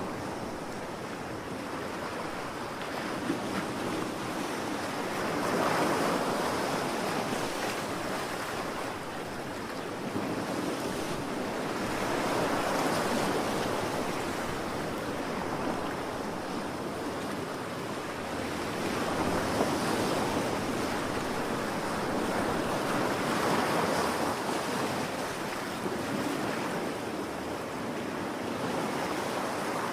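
Ocean waves breaking and washing on a shore in a continuous rush, swelling as each wave comes in, about every five to seven seconds.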